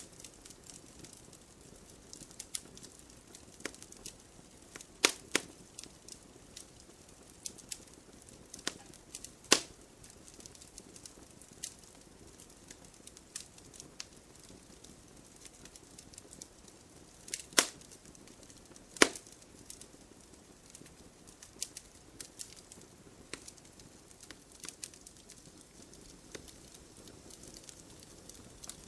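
Wood campfire crackling: a low hiss of burning with irregular sharp pops and snaps, a few louder ones standing out at about 5, 9.5, 17.5 and 19 seconds in.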